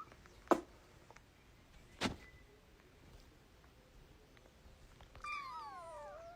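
A domestic cat gives one long drawn-out meow near the end, falling in pitch and then rising again. Before it come two short, sharp knocks.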